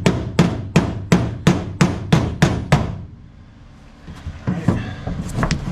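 Hammer tapping down the sheet-metal edge of a floor pan seam, striking sharply and evenly about three times a second for some nine blows. After a short pause, a few more blows come near the end.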